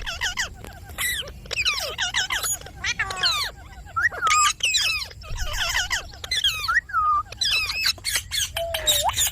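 Indian ringneck parrot calling in a fast, almost unbroken run of shrill squawks and chirps that slide up and down in pitch, ending on a single rising call.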